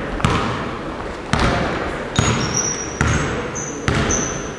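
A basketball bouncing on a hard hall floor, five bounces about once a second, each ringing on briefly. A few short high squeaks sound in the second half.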